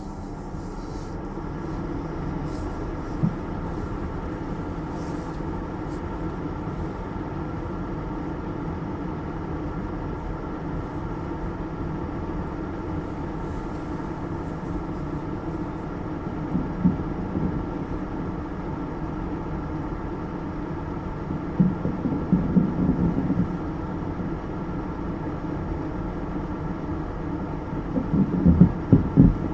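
Steady hum of a parked car's engine idling, with a few short rougher rumbles about halfway through and again near the end.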